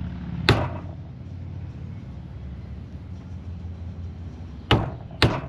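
Three sharp knocks: one about half a second in, then two close together near the end. They sound over a steady low engine rumble that fades a little after about four seconds.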